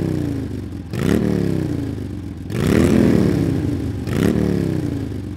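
An engine revving in repeated bursts, about five times, its pitch climbing and then falling off each time.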